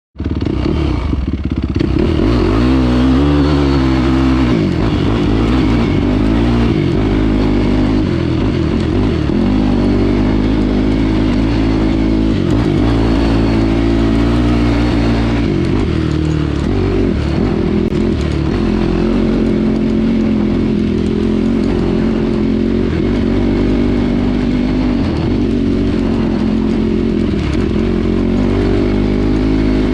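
Yamaha YFZ450 sport quad's single-cylinder four-stroke engine running, its pitch rising and falling again and again as the throttle is opened and closed.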